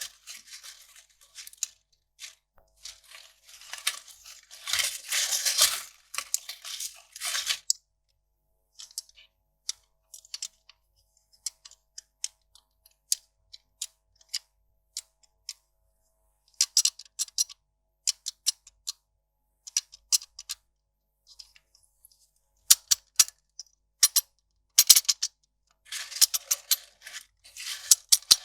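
Kraft paper being handled: a few seconds of rustling and crinkling early on, then a long run of sharp, scattered ticks and short crackling clusters, with brief pauses between them.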